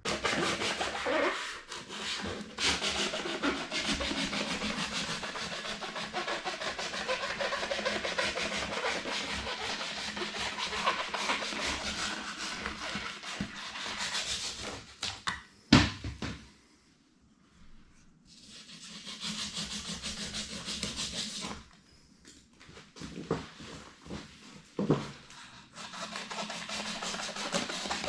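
A blade cutting through cured expanding foam to trim it flush with the wall studs: continuous scratchy cutting and rubbing strokes. A sharp knock comes about sixteen seconds in, followed by a short pause before the cutting resumes.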